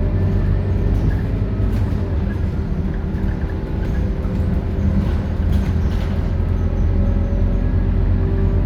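Scania K230UB city bus's diesel engine running steadily, with a few faint clicks over it.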